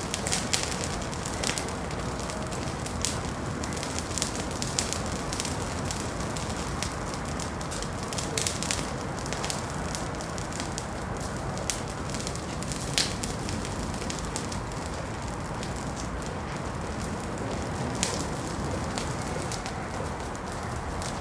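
Wood fire crackling in a fireplace: a steady low rush of flame with frequent sharp, irregular pops and snaps.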